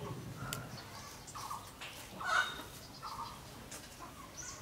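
A few short bird calls, about a second apart, the loudest a little past the middle.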